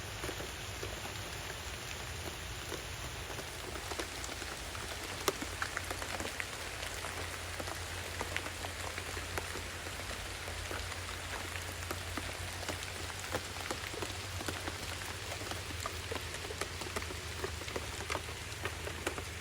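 Heavy steady rain falling through a tree canopy, with many individual drops ticking sharply on leaves and surfaces close by.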